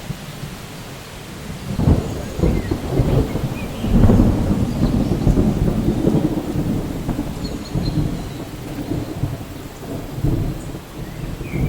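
Rolling thunder over steady rain in a rainforest soundscape. The rumble swells about two seconds in, is loudest around four seconds, then rolls on more softly. A few faint bird chirps sound high above it.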